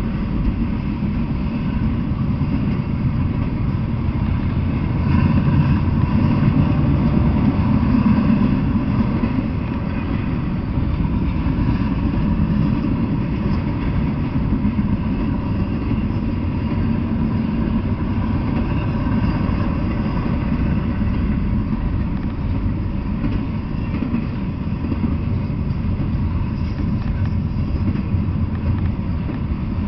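Double-stack intermodal container freight train rolling past: a steady rumble, a little louder for a few seconds about five seconds in.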